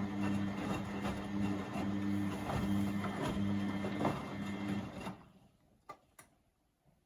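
Beko WMB71642W washing machine tumbling its drum during the wash stage of a 30°C cotton eco cycle. The drum motor runs with a steady hum, stops about five seconds in, and two short clicks follow.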